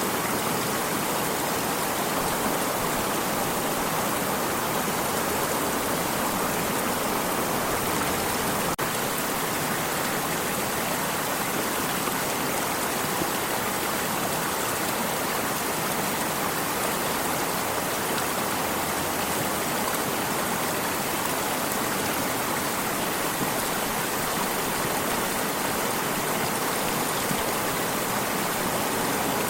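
Stream of running water, a steady, even rush and splash that holds without change.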